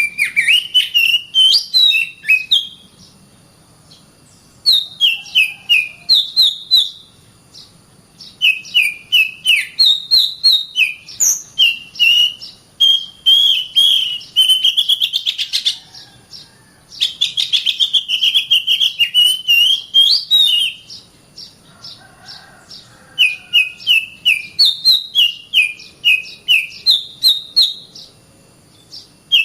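Oriental magpie-robin (kacer) singing in fast runs of short, sharp whistled notes, with brief pauses of a second or two between phrases.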